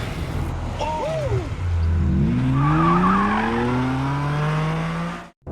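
Car engine accelerating in a film chase, its pitch rising steadily for a few seconds, with a short tyre squeal about a second in. The sound cuts off abruptly just before the end.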